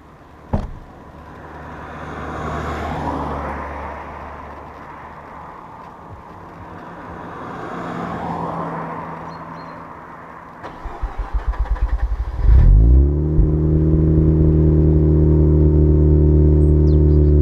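Mazda RX-8's street-ported twin-rotor Renesis engine cold-starting through a Japspeed catback exhaust. After a click and two swells of hiss, the starter cranks in rapid even pulses for about two seconds, the engine catches with a loud flare, then settles into a steady cold idle.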